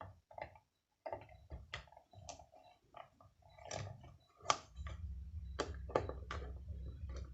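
Irregular small clicks and knocks of a bulb holder's fittings being handled and loosened by hand. A steady low hum comes in about two thirds of the way through.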